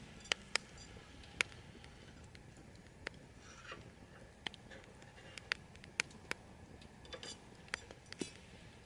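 Irregular sharp clicks and a few light ringing clinks, about a dozen scattered unevenly over a low steady hiss.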